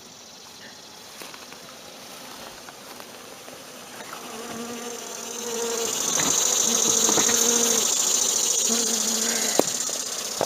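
Honey bees from a swarm buzzing close by, a wavering hum that swells from about four seconds in and is loudest in the second half. A sharp click near the end.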